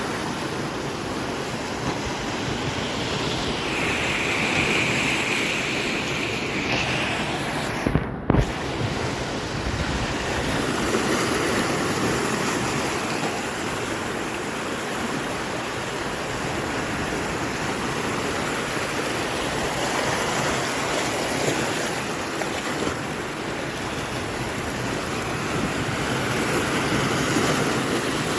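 Heavy sea swell surging against the shore: a continuous wash of surf that rises and falls in level, with wind buffeting the microphone. A brief sharp knock comes about eight seconds in.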